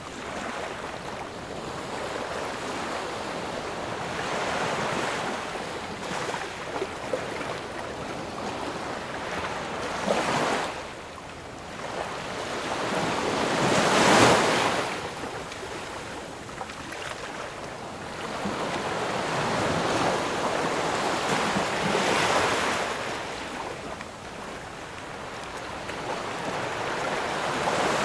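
Ocean waves breaking and washing up on a shore, swelling and ebbing every few seconds, with a bigger wave breaking about 14 seconds in.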